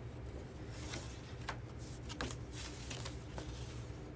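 Paper being handled: light rustles and scattered short clicks as letters and cards are shuffled and turned over, over a low steady hum.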